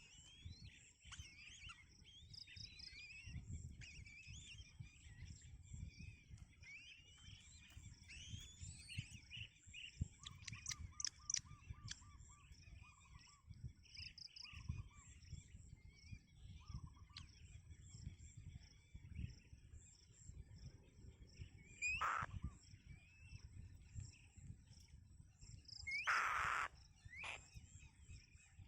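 Birds chirping and calling throughout, with many short whistled notes, a quick run of repeated notes about a third of the way in, and two louder, harsher calls near the end.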